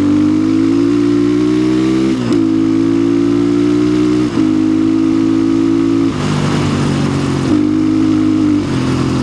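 2025 Orion RXB250XL 250 cc dirt bike engine pulling under throttle. Its pitch climbs steadily and drops sharply twice, about two and four seconds in, as gears change. It then falls to a lower, rougher note that rises and falls again near the end.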